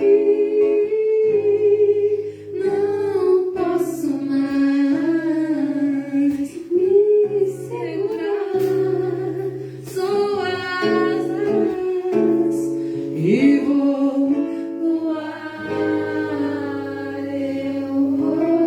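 A slow song: a voice singing a gliding melody over instrumental accompaniment of sustained chords.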